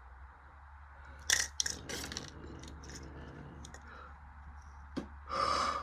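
Bridgestone Altus Newing washing machine near the end of its cycle, its drum motor running with a steady low hum as it slowly tumbles the load. Scattered clicks and clinks come from about a second in, with a short rushing noise near the end.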